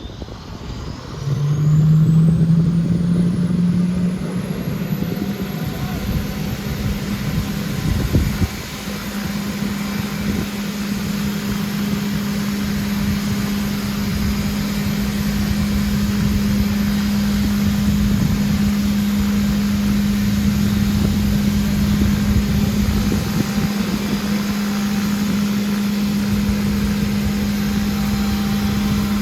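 Hawker Siddeley Nimrod's Rolls-Royce Spey turbofan engines spooling up and running: a high whine climbs steeply over the first few seconds and then holds steady over a constant low hum. One brief low thud comes about eight seconds in.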